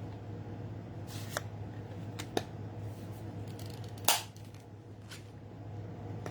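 Several short, sharp clicks and snaps from handling stamping tools and card stock, the loudest about four seconds in, over a steady low hum.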